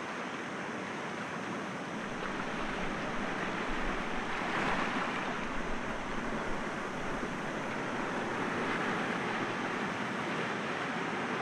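Sea waves breaking gently against rocks: a steady wash of surf that swells about halfway through and again a few seconds later.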